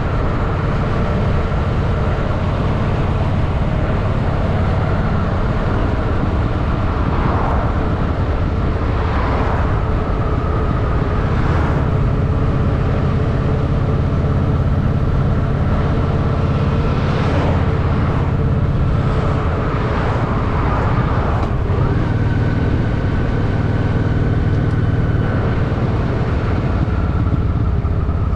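Honda Shadow VT750's V-twin engine running steadily under way in city traffic, recorded from the bike. A few brief swells of noise pass over it.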